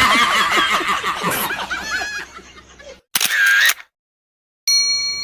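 Comedy sound effects: a run of high, squeaky snickering laughter that fades out over about two seconds, a short sharp effect a second later, then after a gap a single bell ding near the end that rings on.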